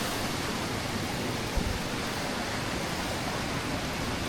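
Steady rush of a nearby waterfall, with a brief low thump about a second and a half in.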